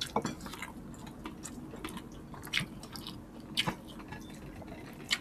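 Close-miked chewing and lip-smacking of people eating creamy chicken and rice with their hands, with a few sharp, wet smacks scattered through.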